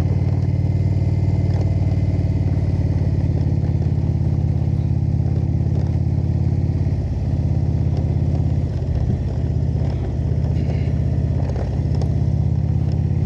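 Indian motorcycle's V-twin engine running steadily, with a few brief dips in its note around the middle and again near the end.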